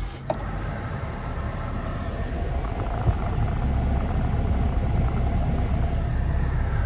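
Mitsubishi Pajero's engine starting, with a brief sharp sound right at the start, then idling steadily with a low drone: the alarm has been disarmed, so its starter kill no longer stops the car from starting.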